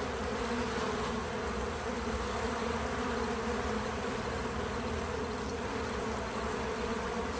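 Many bees buzzing together at a feeder: a steady, even hum.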